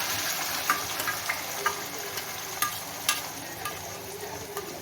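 Onions with mint and coriander leaves sizzling in hot oil in a pan, stirred with a spoon that clicks against the pan several times.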